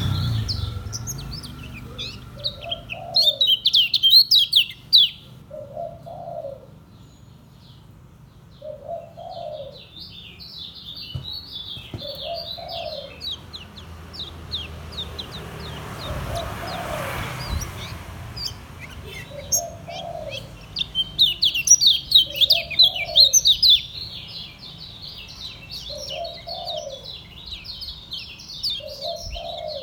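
Kecial kuning, a Lombok white-eye, singing in rapid high-pitched chattering runs, the continuous 'ngejos' song; it is loudest about 3 to 5 seconds in and again from about 21 to 24 seconds. Underneath, a low note repeats about once a second.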